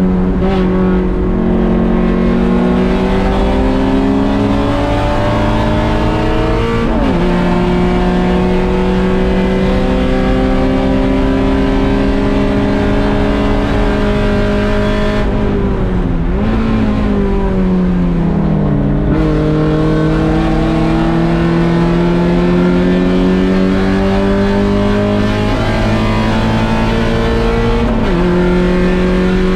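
Mazda Miata 1.6-litre four-cylinder race engine under hard acceleration, its pitch climbing and dropping sharply at upshifts about seven seconds in and twice near the end. Midway the engine drops off for braking with downshifts, then climbs again.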